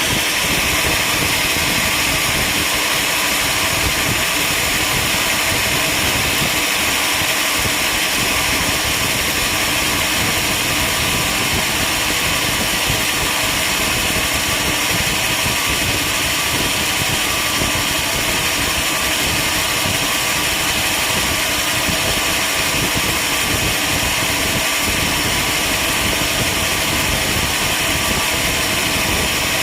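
Sawmill machinery running with a steady, even mechanical noise that does not change.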